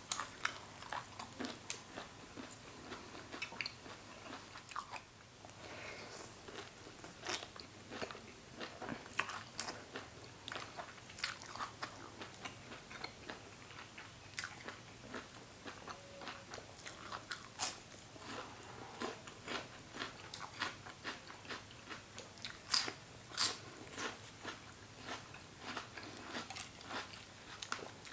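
Close-up chewing and biting of a spicy horseshoe crab egg salad, with many small wet crunches and clicks at an uneven pace.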